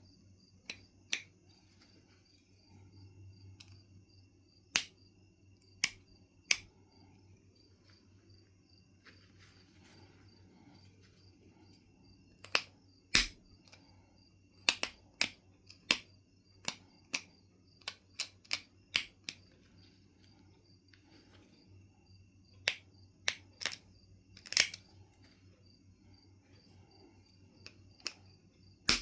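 Sharp, irregular clicks of flakes being detached from Knife River flint during flintknapping, coming in clusters with pauses between.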